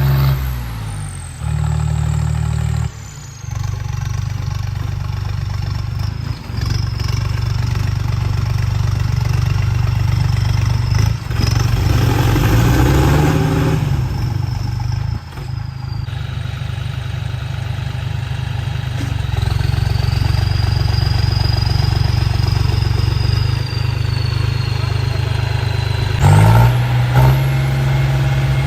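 Tractor diesel engine running steadily, with a brief louder surge near the end.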